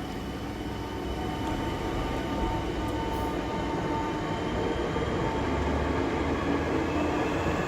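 Two coupled Southeastern Class 465 Networker electric multiple units pulling away from the platform. A steady electric whine from the traction equipment runs over the rumble of the wheels on the rails, growing gradually louder.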